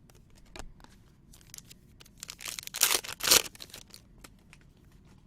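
A trading-card pack's wrapper rustling and tearing, loudest in two short bursts between about two and three and a half seconds in, among light clicks of cards being handled.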